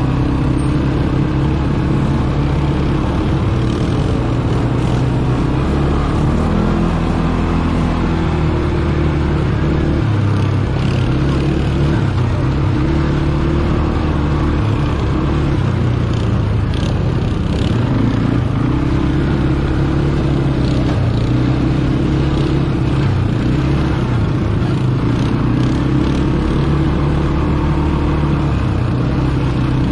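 ATV engine running while riding, its pitch rising and falling repeatedly as the throttle opens and closes.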